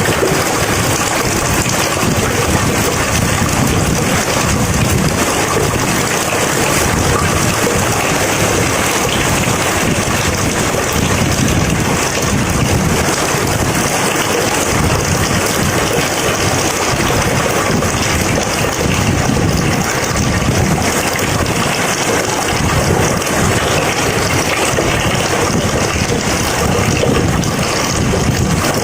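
Heavy rain falling steadily, a dense even hiss with an uneven low rumble underneath.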